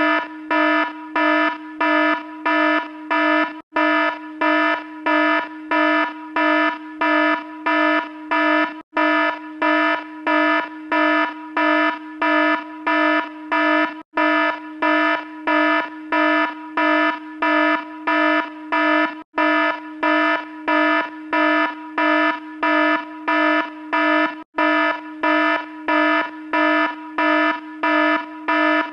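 Electronic alarm sounding as a buzzy pulsing tone, about two beeps a second, steady and loud, with a short break about every five seconds.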